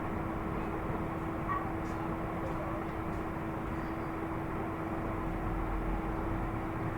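Steady background noise with a constant low hum running under it.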